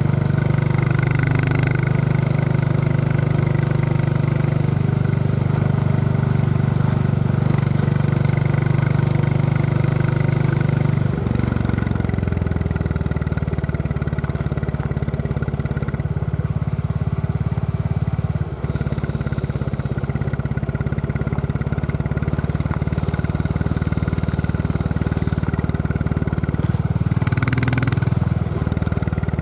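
Royal Enfield Classic 350's single-cylinder engine thumping under way on the road. Its note drops to a lower pitch about eleven seconds in, and it briefly rises and falls again near the end.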